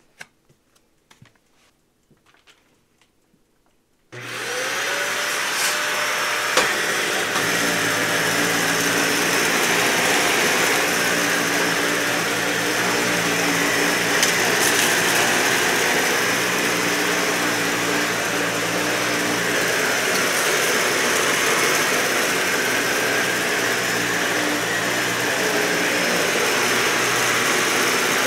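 A few faint clicks, then about four seconds in a Dyson vacuum cleaner switches on, its motor whining briefly up to speed. It then runs steadily, vacuuming carpet.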